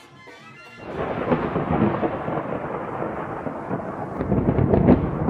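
A loud, rough rumbling noise with crackles starts suddenly about a second in, after a short faint tail of music.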